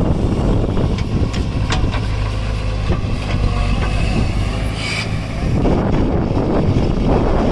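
Diesel tractor engine running steadily with a low hum, a few knocks about a second in and a brief high squeal about five seconds in.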